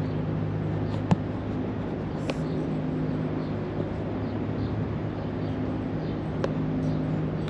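Steady low mechanical hum made of several evenly spaced pitches, with three short sharp clicks about a second in, a little over two seconds in and about six and a half seconds in.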